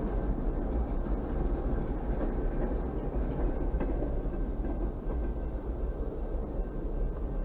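Freight train of intermodal container cars rolling slowly past: a steady rumble of steel wheels on rail with a few faint clicks.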